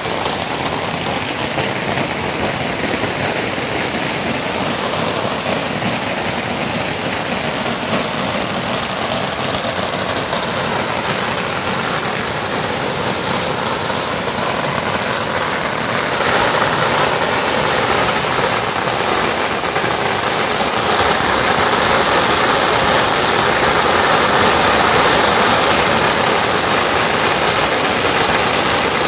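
Long strings of firecrackers going off without a break, a dense continuous crackling that grows louder about halfway through.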